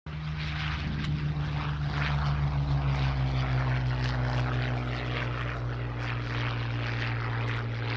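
Rolls-Royce Merlin V12 engine of a Hawker Hurricane fighter running, a steady propeller drone whose pitch sinks slowly.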